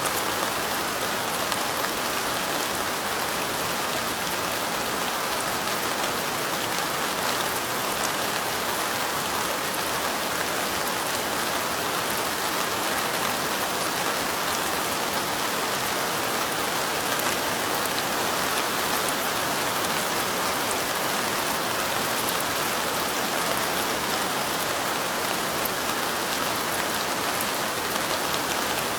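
Light rain falling steadily, a continuous even hiss with many small drop ticks through it.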